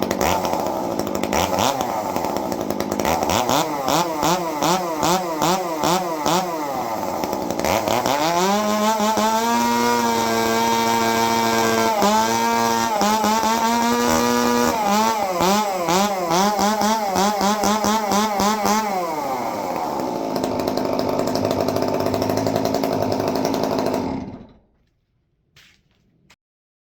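Stihl 261 two-stroke chainsaw running through a handmade prototype muffler built for heavy back pressure: revved up and down repeatedly, held at high revs for a few seconds in the middle, revved again, then idling before the engine cuts off suddenly near the end.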